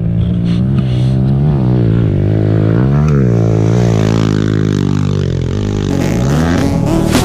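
Pit bike engine running, with several short throttle blips that briefly raise and drop its pitch.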